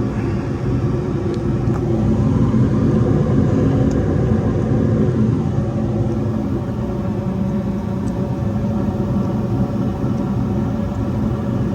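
American Standard gas furnace running on LP, a steady rumble from its burners and motors with a constant hum.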